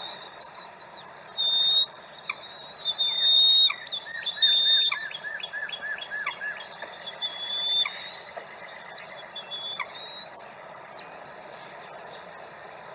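Bald eagles calling at the nest: high, thin whistled notes, with a run of about eight quick falling chirps a few seconds in. The calls thin out over the last few seconds.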